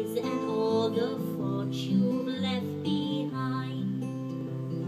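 Acoustic guitar playing, with several notes ringing on together and overlapping.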